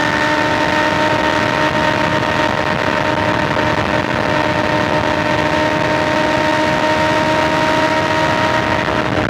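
BMW S1000XR's inline-four engine running at a steady highway cruise, its tone holding an even pitch, over steady wind and road noise.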